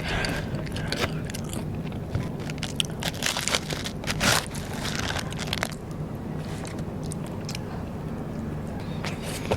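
Close-up eating of Vietnamese rice paper (bánh tráng) snacks: a run of crunchy bites and chewing, with the loudest crackling crunches in the middle, growing sparser after about six seconds. A steady low hum lies underneath.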